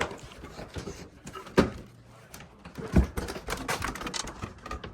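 Handling knocks and thumps: a sharp knock about a second and a half in, a louder thump about three seconds in, then a run of light clattering knocks.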